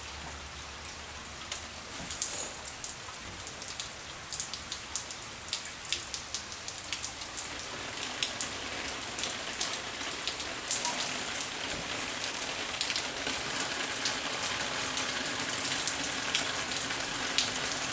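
Steady rain falling, with many sharp, close drop impacts ticking through it; the ticks get denser about two seconds in.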